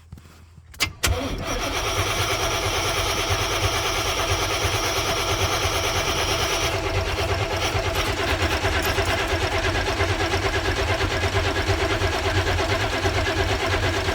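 A Chevrolet G20 van's engine being cranked by the starter after a click, turning over with an even, rhythmic pulse and not catching: a crank-no-start.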